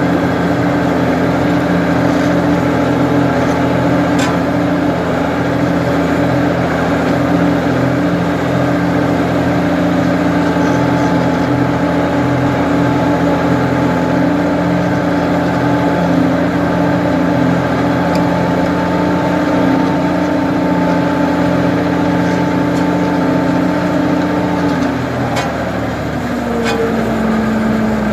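Ford 550 backhoe engine running steadily under throttle. Its pitch drops slightly about three seconds before the end as the revs ease off.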